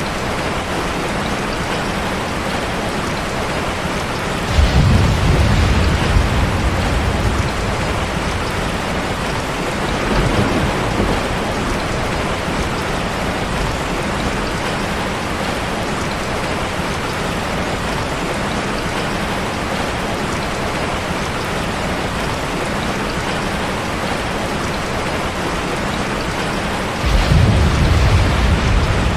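Steady rain with an even hiss. Low rumbles of thunder come in suddenly about four and a half seconds in and again near the end, with a fainter rumble around ten seconds.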